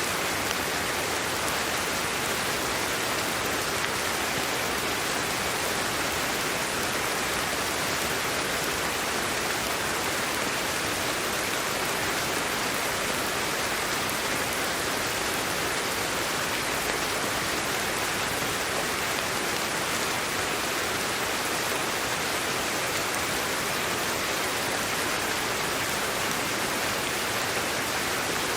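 Steady sleep-aid white noise: a continuous, even hiss that does not change, heaviest in the middle and upper range with little bass.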